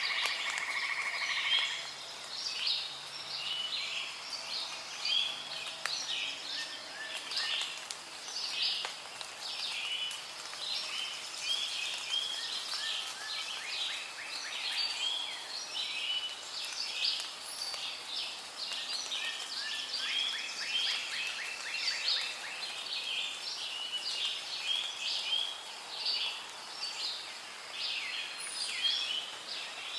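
Rainforest ambience: a dense, continuous chorus of many overlapping bird calls and chirps, high-pitched and busy throughout, over a faint background hiss.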